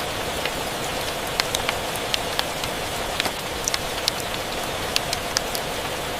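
Steady rain hiss with scattered sharp pops and crackles from a wood fire, a few every second.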